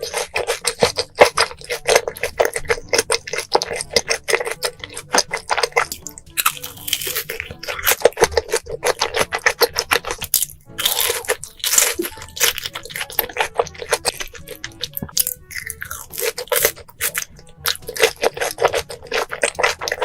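Close-miked eating sounds: rapid, crunchy chewing with wet crackles, and a few longer rushing stretches, as in food being bitten and chewed in an eating-sounds video.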